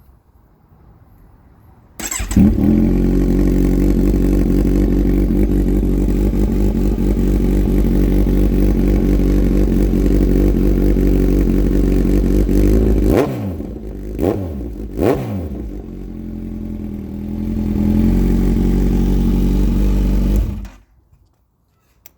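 Kawasaki Z1000-R inline-four running through a 4-2-1 aftermarket exhaust header: it starts about two seconds in and idles steadily. The pitch swings up and down twice as it is revved, the idle rises briefly, and the engine cuts off shortly before the end.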